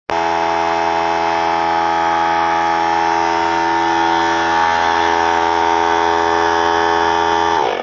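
3-gallon oilless pancake air compressor's motor running, a steady, very loud whine. Near the end the motor cuts out and winds down, falling in pitch as it stops.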